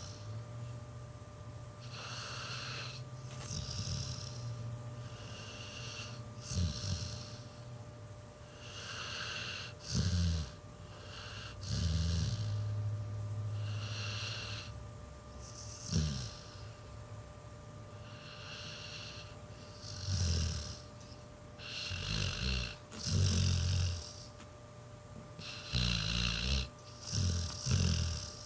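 Pit bull snoring in her sleep, one breath about every two seconds, with short louder snorts that come closer together near the end.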